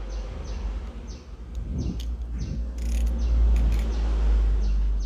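A small bird chirps over and over, short high falling notes about two a second, over a steady low rumble. A few faint clicks and rustles come from tape being cut and handled.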